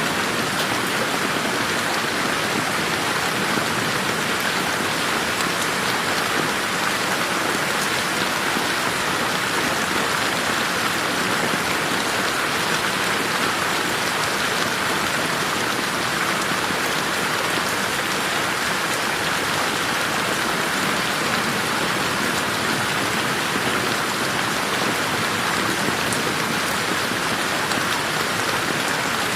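Steady rain falling in a garden, an even, unbroken hiss of many drops, mixed with 8D panning that moves it around the listener on headphones.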